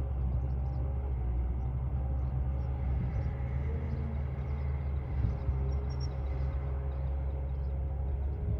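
Heavy diesel engine of an earthmoving machine running steadily under a constant low engine note, with a small knock about five seconds in.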